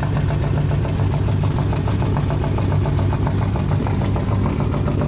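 302 small-block Ford V8 in an E36 drift car idling steadily, with a fast, regular ticking knock running through it: the rod knock the owner says the engine developed.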